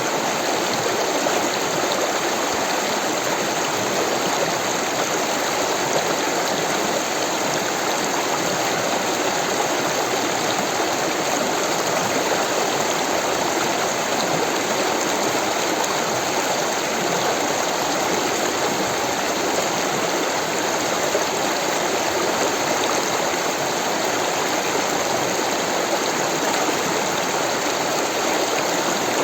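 Rushing water of a stream, a steady, even noise without breaks.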